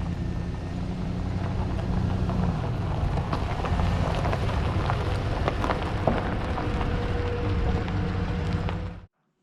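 Old Ford pickup truck running steadily, with a low, even engine drone and a stream of small rattles and clicks on top.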